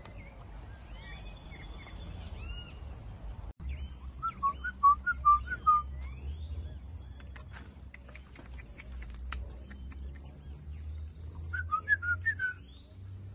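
Birds calling in the open: high gliding whistles in the first few seconds, then twice a quick run of about eight short whistled notes, which are the loudest sounds. Scattered clicks and a low steady rumble lie beneath.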